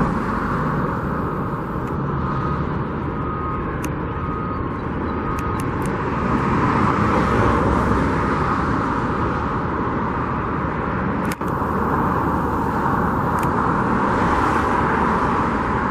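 Steady outdoor traffic and construction-site din that swells twice, with faint repeated beeping in the first few seconds.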